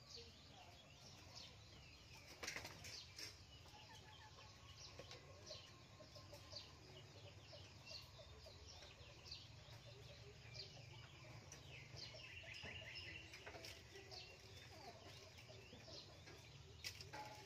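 Faint bird chirps scattered throughout, over a steady low hum, with one sharp click about two and a half seconds in.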